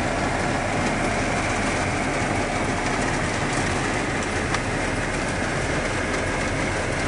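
Steady noise inside a pickup truck's cab with the engine running.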